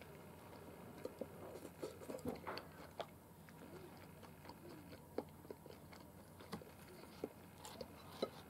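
Faint chewing of crispy deep-fried small horse mackerel (mame-aji karaage), with scattered soft clicks.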